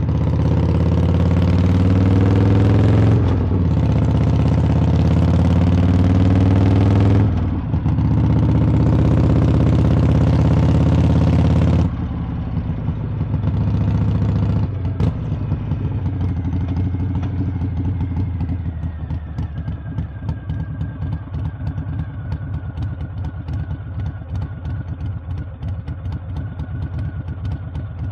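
Harley-Davidson V-twin engine accelerating hard with its pitch climbing, broken by two gear changes in the first eight seconds. About twelve seconds in the throttle closes and the engine winds down, settling into a steady pulsing idle.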